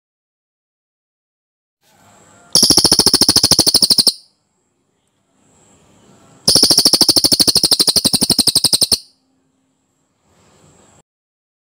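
Cililin bird singing a dense rolling trill twice, each a fast, even rattle of about twenty notes a second. The first lasts about a second and a half; the second comes about four seconds later and lasts about two and a half. Each trill is preceded by soft, faint notes, and another soft phrase comes near the end.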